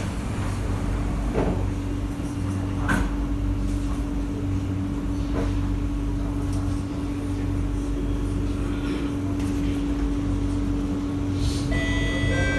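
Inside a C151A electric train carriage: the doors shut with a sharp knock at the start, then the carriage hums steadily while the train stands. Near the end a set of steady pitched tones sets in as the traction motors start the train moving.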